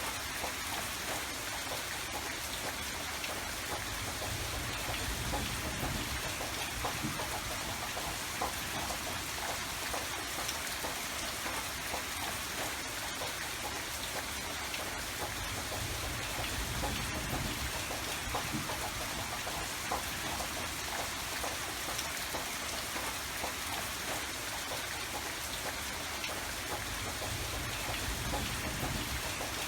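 Steady rain falling, with countless small drop patters and low rumbles swelling now and then.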